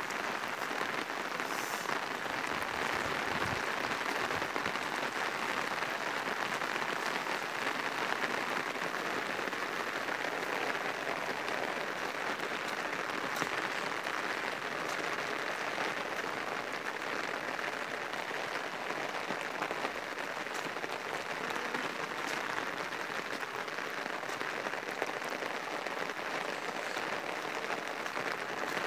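Steady rain falling, a continuous even hiss of drops that holds at one level throughout.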